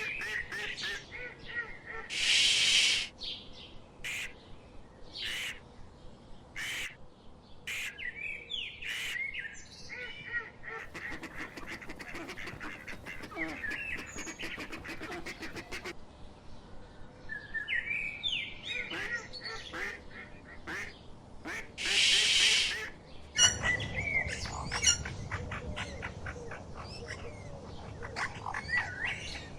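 Assorted birds calling in short, repeated calls, with duck-like quacking among them, broken twice by a loud rushing noise about a second long: once near the start and once about two-thirds through.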